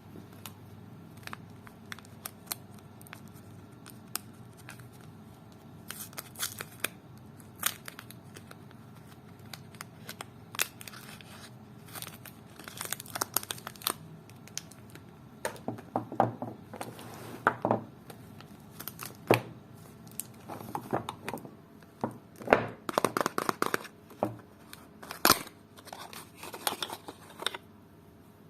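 Soap bar wrappers being unwrapped by hand: irregular crinkling and tearing with sharp little clicks. It is sparse at first, then busier from about six seconds in, with the densest crackling in the second half.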